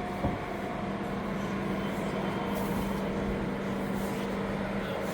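A steady mechanical hum with a low drone and fainter higher tones, and a single short click about a quarter second in.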